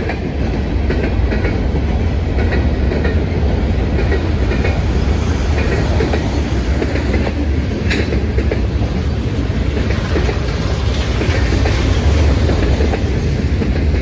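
Freight train cars rolling past at close range: a steady rumble of steel wheels on rail, with a regular clickety-clack of the wheels over the rail joints.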